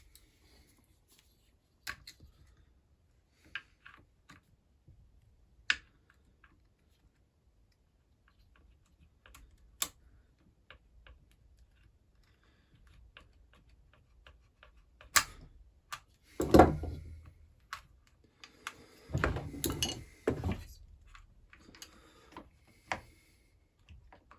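Scattered sharp clicks and light taps of hand tools and small parts being handled during a chainsaw strip-down, with a few heavier clunks and rattles about two-thirds of the way through.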